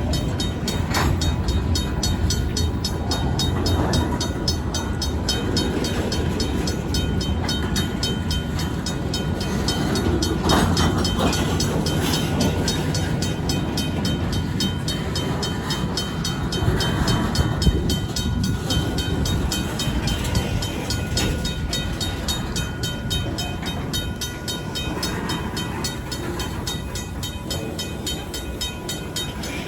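Freight cars of a Union Pacific local rolling over a grade crossing, rumbling steadily with a few sharp clanks. Over it, the crossing's RACO mechanical bell rings continuously with rapid, even strokes.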